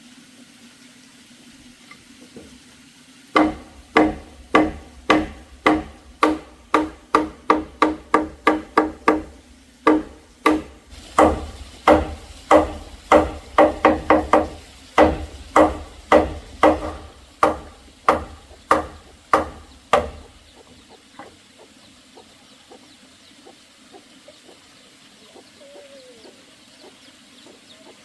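A run of sharp striking blows, about two to three a second, each with a short ringing tone; they start a few seconds in, pause briefly about ten seconds in, and stop about twenty seconds in.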